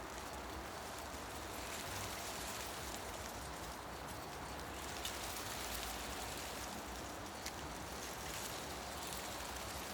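Wind rustling through tree leaves, swelling and easing in gusts, with a couple of faint ticks.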